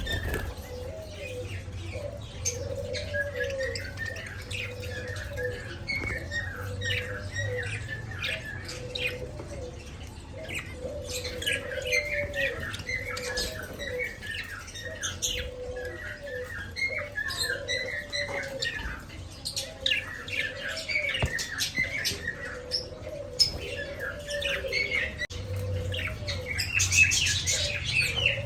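Pet budgerigars chattering steadily in short, repeating rising-and-falling chirps, with brief squawks and scattered sharp clicks; the chatter grows louder and busier near the end.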